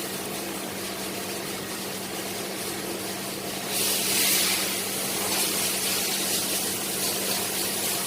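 Steady machine hum in a workshop, joined a little under four seconds in by a loud hiss that peaks briefly and then settles into a steady rush.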